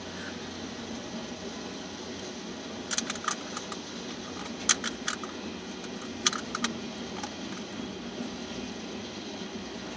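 Freight train of open-top aggregate hopper cars rolling past with a steady rumble of wheels on rail, broken by three groups of sharp metallic wheel clicks about a second and a half apart.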